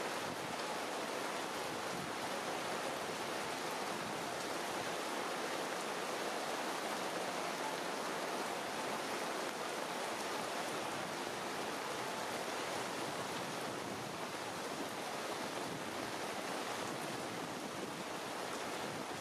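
Steady rain falling through the tree foliage, an even hiss with no breaks.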